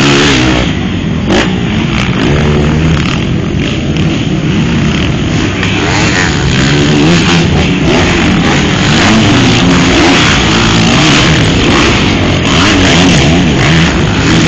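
Motocross bike engines revving up and down throughout, the pitch rising and falling again and again as the riders work the throttle.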